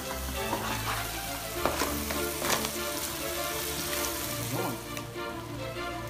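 Seafood (crabs, prawns and lobster) sizzling in chili-butter-garlic sauce in a large nonstick pan, stirred with a wooden spatula that scrapes and knocks against the pan now and then. Background music plays under it.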